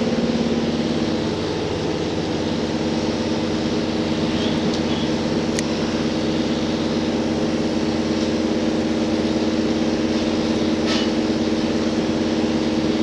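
Cabin running sound of a JR Hokkaido H100 DECMO diesel-electric railcar: the engine-generator drone holds a steady pitch over rolling rail noise. There are two sharp clicks, about halfway through and near the end.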